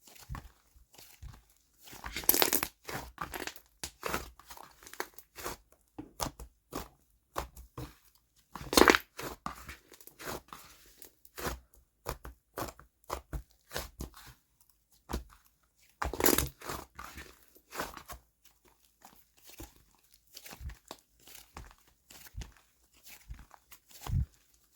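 Slime being squished, stretched and poked by hand, giving irregular clicks, pops and crackly tearing sounds, with three louder squelching bursts spread through.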